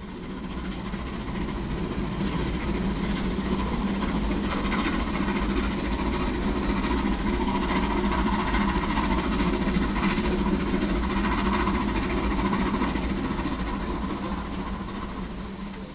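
A train running: a steady rumble that swells up over the first couple of seconds and fades away near the end.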